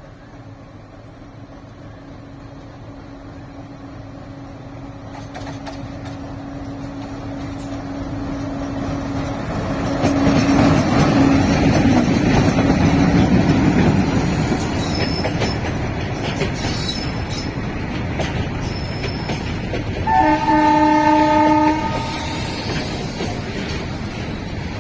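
ALCO WDM-3A diesel locomotive's 16-cylinder engine drawing near with a steady note, growing louder until it passes about halfway through, then the rumble and clatter of goods wagons rolling over the rail joints. One horn blast of about a second and a half sounds a few seconds after the locomotive has passed.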